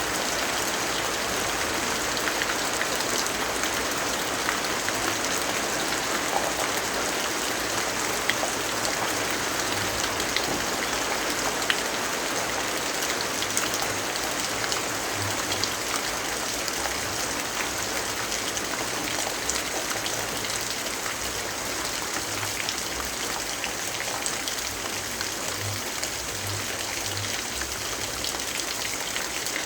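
Steady rainfall: an even hiss with scattered light drop ticks.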